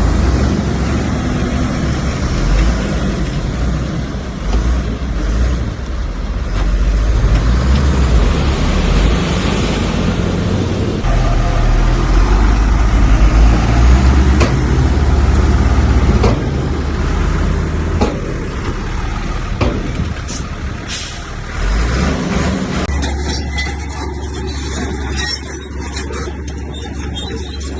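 Heavy diesel earthmoving machinery working, its engine note rising and falling under load, with a few sharp clanks around the middle. About two-thirds of the way through it settles into a steadier low drone.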